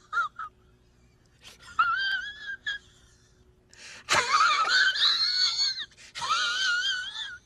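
A high, wavering, wail-like sound effect in several short phrases separated by silences, the loudest and harshest one starting about four seconds in.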